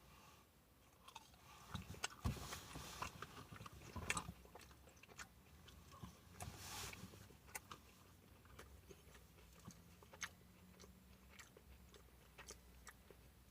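A person biting and chewing Burger King buffalo chicken fries. There are a few louder bites and crunches in the first seven seconds, then fainter mouth clicks.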